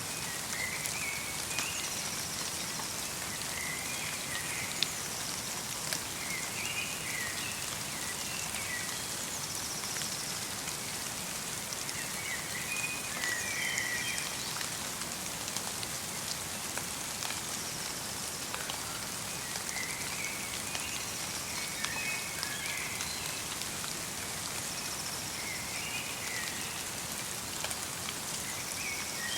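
Steady light rain falling in a forest, with a small bird's short chirping calls recurring every few seconds.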